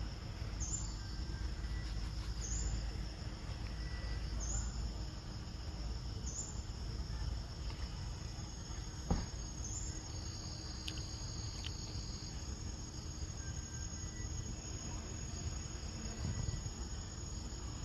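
Steady high insect chirring, with a short rising chirp about every two seconds through the first half and a single knock about halfway.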